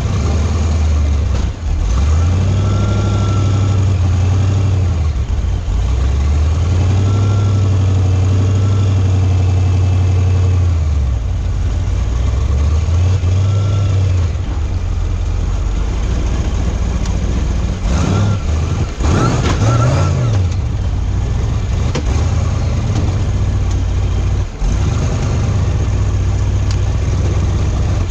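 Off-road rock buggy's engine running at low speed and repeatedly revving up and easing off, with a sharper blip about two-thirds of the way through.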